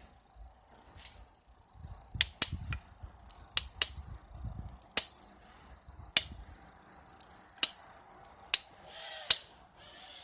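Sharp clicking taps of a striker on a stone edge as a flintknapping platform is being set up, about nine irregular taps starting around two seconds in, with soft handling rumble between the early ones.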